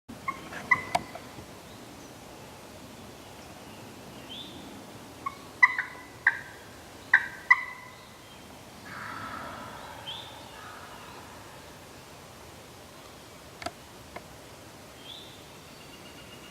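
Wild turkey toms gobbling: one gobble about half a second in, then a run of several loud gobbles between about five and eight seconds, and a shorter call near ten seconds. Small high bird chirps and two sharp clicks come and go in the background.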